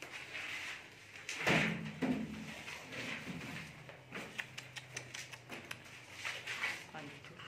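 A door bangs about one and a half seconds in, followed by scattered knocks and clicks.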